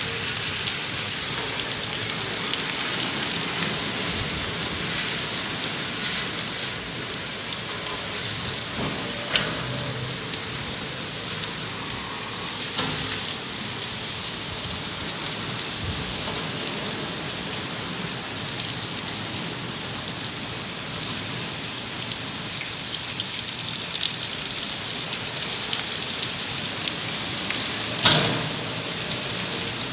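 Heavy rain pouring down steadily, with a few sharp taps of drops striking a surface, the loudest near the end.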